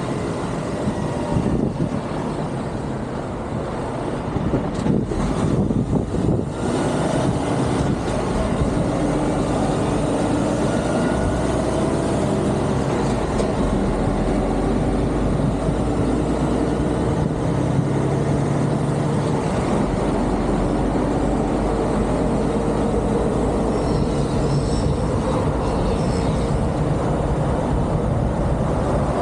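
Heavy truck's diesel engine running steadily at low revs while the truck maneuvers. A deep low rumble strengthens for several seconds in the middle.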